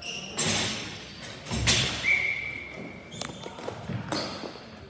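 Ball hockey play: a series of hard knocks and thuds, from the ball and sticks striking and the ball hitting the boards. The loudest hit comes a little under two seconds in and is followed by a short, steady high tone lasting about a second.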